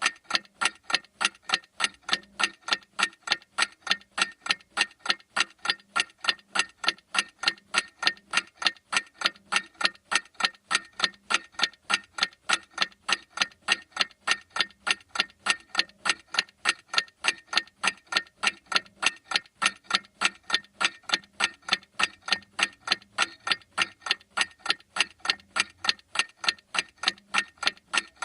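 Clock ticking steadily, with evenly spaced sharp ticks, a few each second.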